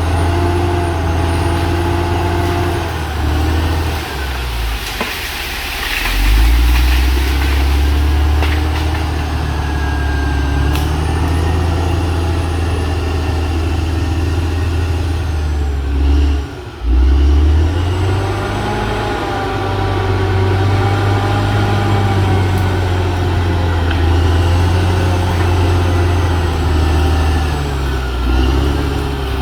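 CAT D6R XL bulldozer's diesel engine running under working load, its pitch rising and falling as the load changes, with a brief sudden drop in level about two-thirds of the way through.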